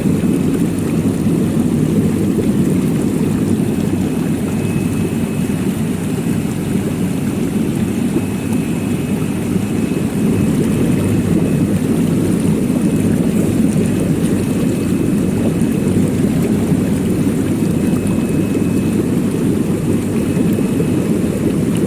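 Vegetable washing machine running: a loud, steady low rumble.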